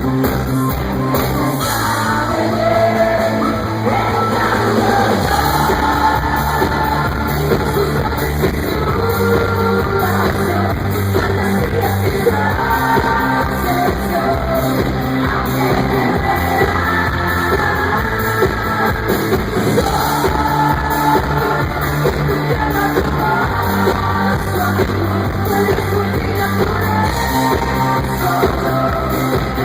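Pop-rock song: a woman singing over a band with sustained bass notes and a steady drum beat.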